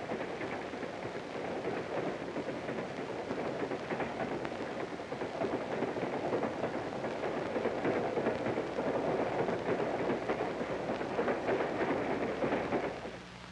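Freight train passing close by: a steady rumble and clatter of steel wheels on the rails, growing louder through the middle and dropping away just before the end.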